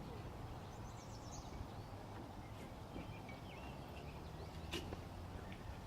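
Faint lakeside ambience: small birds giving a few short chirps, with a brief high twittering about a second in, over a low steady rumble. A single sharp click comes near the end.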